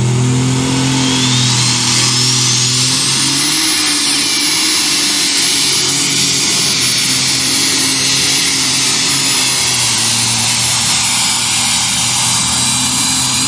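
Pulling tractor's engine running hard at full power through a pass. A high whine climbs over about two seconds, then holds, over the steady engine tone.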